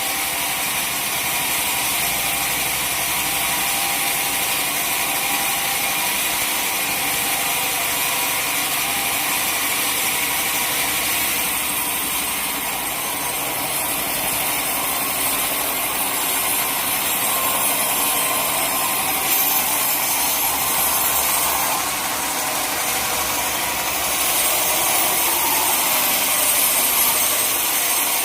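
Sawmill saw running steadily under power through a teak log, a continuous loud mechanical noise with small swells in level.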